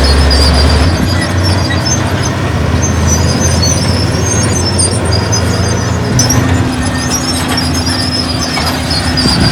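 Heavy construction machinery diesel engine running steadily, with broken high-pitched squeaks over it throughout.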